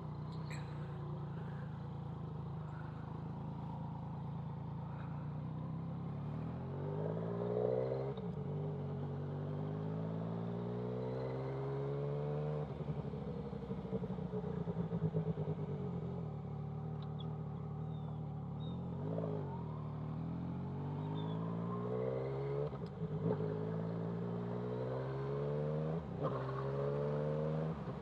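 Yamaha MT-09's inline-three engine with a CS Racing aftermarket exhaust, under way: the engine note climbs under acceleration and drops back at gear changes, several times over.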